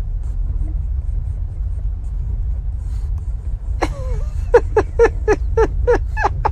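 A dog whining and yipping over a steady low rumble. About four seconds in comes one falling whine, then a quick run of about eight short high yelps, roughly three a second.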